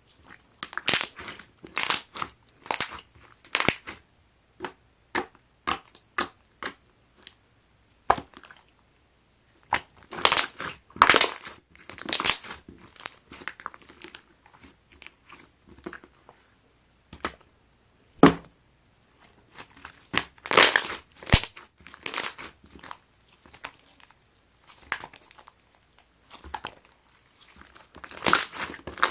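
Clear slime with pearl powder being squished and worked, making irregular runs of wet popping and crackling clicks with short pauses between.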